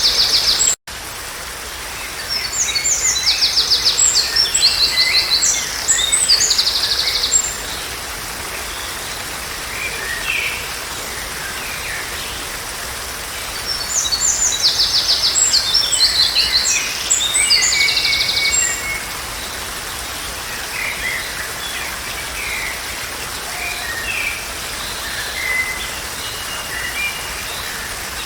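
Songbirds singing over a steady rush of running water. Two long bouts of high, fast trilled phrases come about ten seconds apart, with scattered softer chirps between them. The sound cuts out completely for a moment just under a second in.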